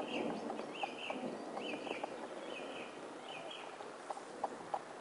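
A bird repeating a short high call about every two-thirds of a second, six times, then falling silent, over a steady hiss with scattered sharp ticks.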